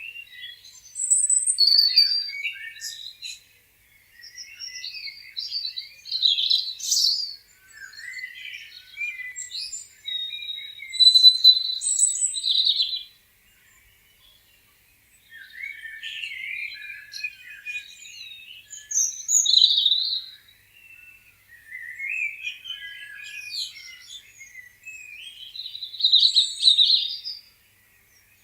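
Several songbirds chirping and singing in overlapping bursts of quick high chirps and short trills, with brief lulls about four seconds in and again midway.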